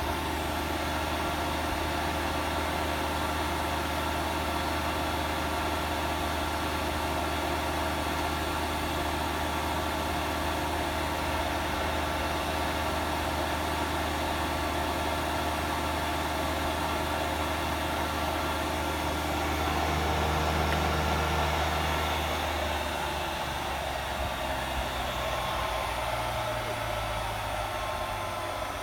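AEG L86810 washing machine's drum spinning at high speed in its service-mode drain-and-spin test, a steady hum and whine. About 22 seconds in the pitch starts falling as the spin slows down.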